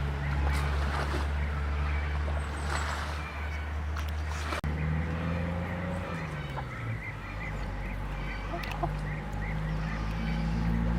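A poultry flock calling with many short calls over a loud, steady low machine hum. The sound drops out for a moment a little before halfway.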